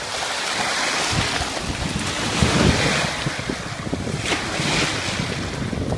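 Surf breaking and washing up the beach, with wind buffeting the microphone in gusts.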